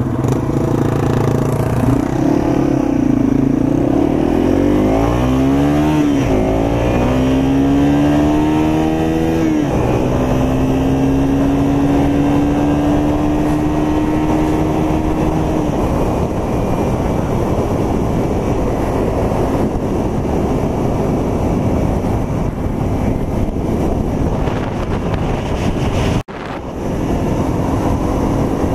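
Yamaha TW200's single-cylinder four-stroke engine pulling through the gears: the pitch rises, drops at a shift about six seconds in, rises again and drops at another shift near ten seconds, then climbs slowly at cruising speed under a steady rush of wind. The sound drops out for a moment near the end.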